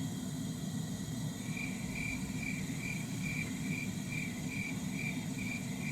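A short high-pitched beep repeating evenly, about two to three times a second, starting about a second and a half in, over a low steady hum.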